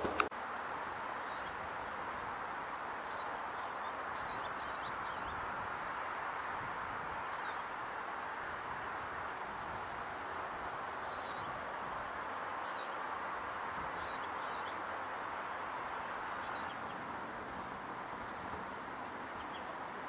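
Small birds giving scattered high, short chirps, a few sharper ones standing out every few seconds, over a steady background noise. A sharp click comes just after the start.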